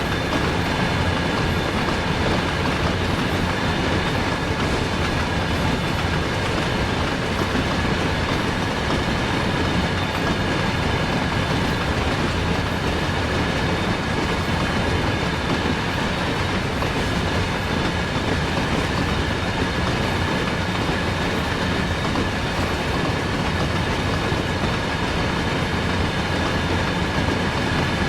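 Freight train of tank cars rolling past, a steady rumble with the wheels clacking over the rail joints.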